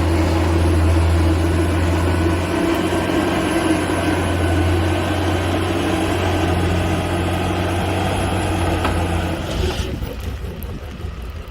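Steady low engine drone and road rumble of a moving vehicle, with a faint high whine. It starts abruptly and changes sharply to a thinner, quieter noise about ten seconds in.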